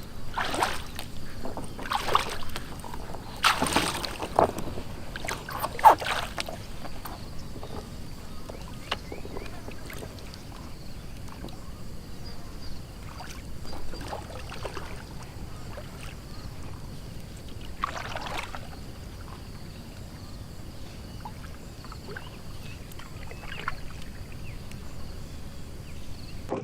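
Water splashing and sloshing in irregular strokes, several close together in the first few seconds and one more near the end, over a steady faint high hiss.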